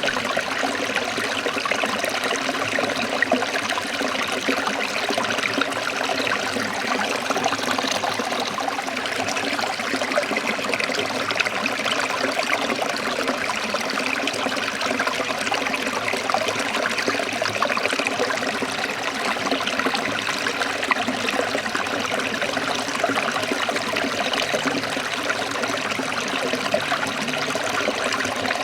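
Shallow stream trickling and babbling over rocks, a steady flow of water with many small splashes.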